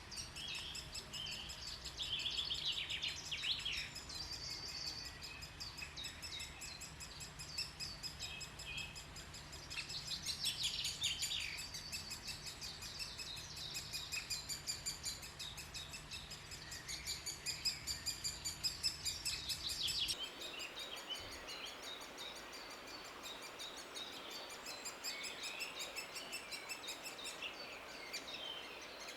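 Great spotted woodpecker young calling from the nest hole: series of quick, high, repeated chirps coming again and again, over a faint outdoor background. A low rumble underneath stops abruptly about two-thirds of the way through.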